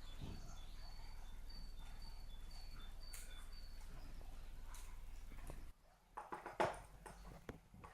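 A small bird calling short high notes over and over, alternating between two pitches about four times a second, which stop about three seconds in. A steady low hum cuts off suddenly partway through, and then come soft clicks and rustles and one louder short noise near the end.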